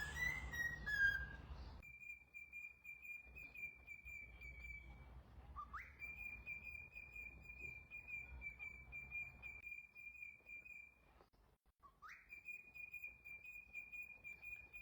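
Pet parrot whistling: a few short gliding notes, then three long, steady high whistles of several seconds each. The second and third each slide up quickly into the held note.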